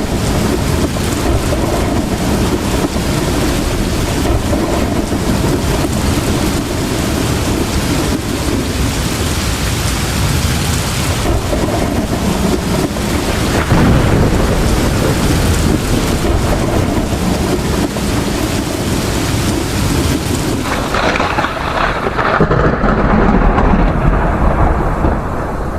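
Heavy storm rain and wind, a dense steady hiss over a deep rumble. About three-quarters of the way through the sound changes and turns duller as the high hiss drops away.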